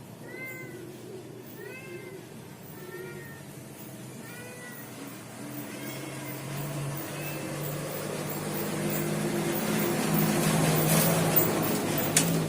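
A cat meowing, about six short calls in the first seven seconds. After that a rising noise grows louder, with two sharp clicks near the end.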